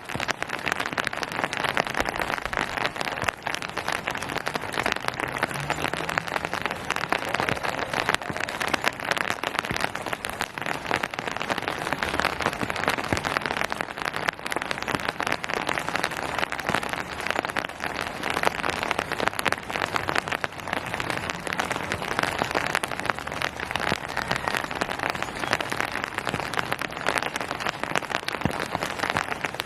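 Steady rain falling on surfaces, a dense continuous pattering of raindrops.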